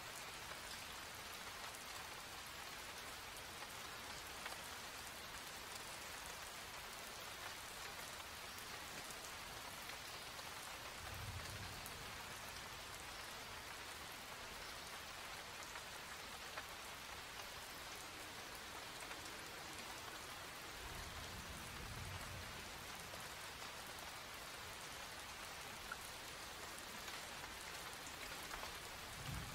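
Steady rain falling, an even hiss of drops on wet surfaces. A soft low rumble swells briefly about a third of the way in, again about two-thirds in, and at the very end.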